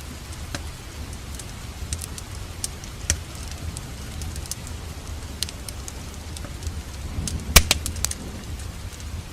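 Wood fire crackling in a fireplace: scattered sharp pops, with a quick cluster of louder pops about seven and a half seconds in, over a steady low rumble of rain.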